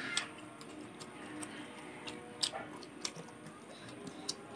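Close-miked, wet chewing of pork intestine and rice, with sharp mouth clicks and smacks about once a second.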